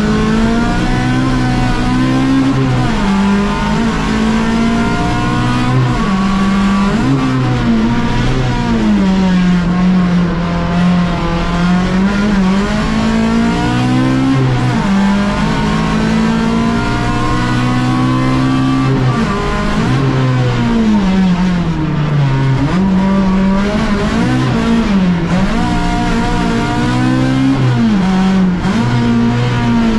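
Fiat Uno competition car's engine heard from inside the cabin, driven hard, its revs climbing and then falling sharply again and again.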